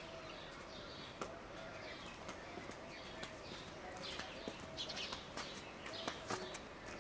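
Birds chirping repeatedly, faint, with a few light clicks and knocks.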